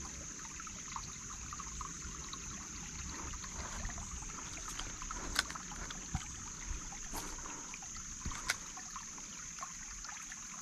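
Small creek water trickling steadily, under a constant high-pitched drone, with a few sharp clicks in the second half.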